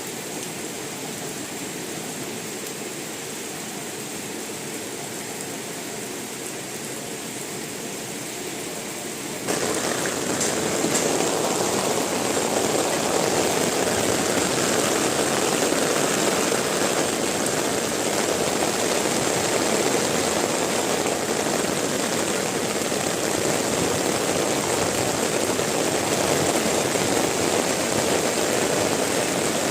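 Heavy rain falling with a steady hiss. It turns abruptly louder and fuller about a third of the way in, then keeps on evenly.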